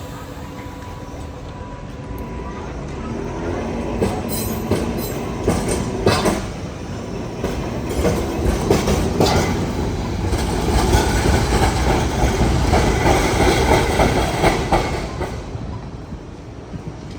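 Old City Circle W-class tram passing close by: steel wheels clacking over the rail joints and a running rumble that grows, is loudest in the middle and fades away near the end.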